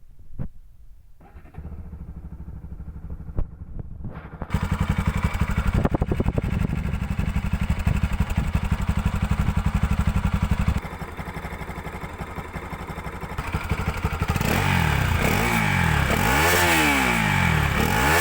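Bajaj Pulsar NS200's single-cylinder engine idling steadily, louder from about four seconds in. Near the end the throttle is blipped repeatedly, the revs rising and falling several times. A single click comes just before the engine sound begins.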